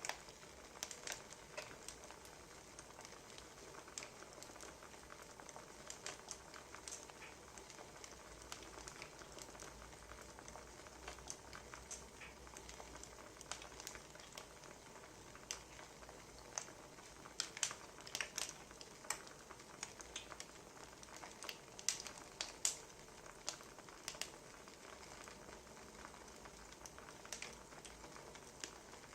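Wood fire crackling, faint steady hiss with irregular sharp pops and snaps, a few louder pops in the second half.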